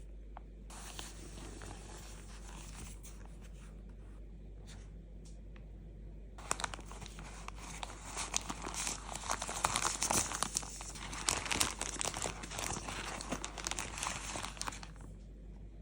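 A packaged sweet's wrapper being crinkled and torn open. There is light rustling at first, then dense crinkling from about six seconds in that stops shortly before the end.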